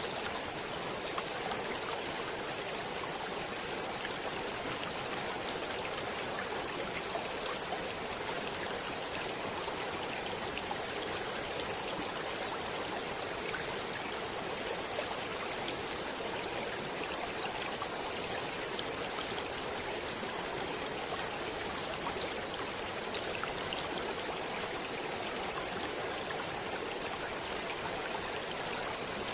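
Running water of a stream, a steady even rush with faint small splashes scattered through it.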